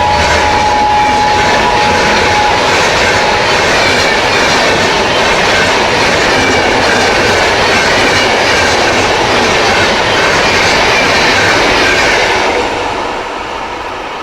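Indian Railways Double Decker Express train running past at close range: loud, steady rolling noise with wheels clattering and squealing on the rails, falling away near the end as the last coaches pass. A single shrill horn note from the WAP-7 electric locomotive carries on through the first few seconds, then stops.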